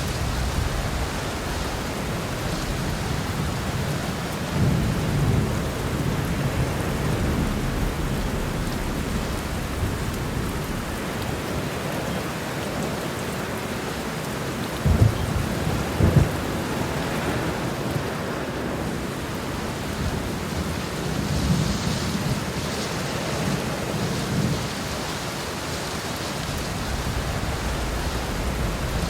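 Heavy rain pours down steadily while thunder rumbles low several times. Two sharper thunderclaps come in quick succession about halfway through.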